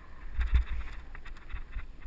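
Mountain bike rolling over rough ground, with the bike clattering and ticking over bumps and wind buffeting the microphone; a harder jolt about half a second in.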